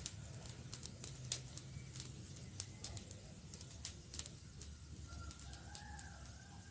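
Campfire crackling: irregular sharp pops and snaps of burning wood over a low steady rumble. About five seconds in, a faint wavering pitched call, bird-like, rises in behind it.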